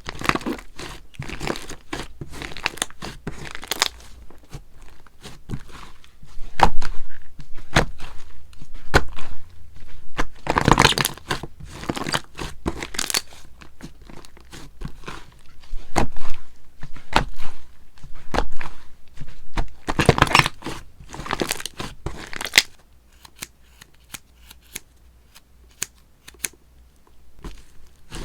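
Sherbet slime being squeezed and pulled by hand, giving off crisp crackles, pops and tearing sounds in irregular bursts. It goes quieter in the last few seconds, with only scattered clicks.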